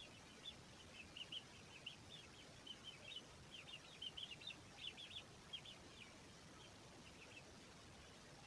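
Faint, high peeping of fowl chicks in quick runs of short notes, tailing off about seven and a half seconds in.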